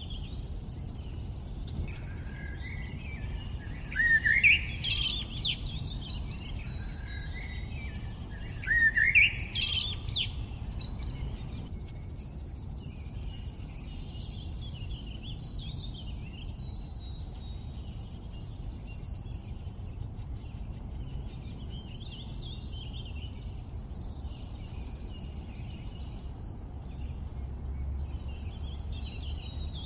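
Several birds chirping and singing, with two louder phrases of rising notes about four and nine seconds in. A steady low rumble runs underneath.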